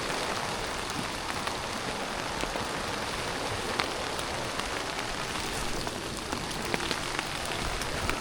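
Steady rain falling, with scattered sharper drops ticking close by.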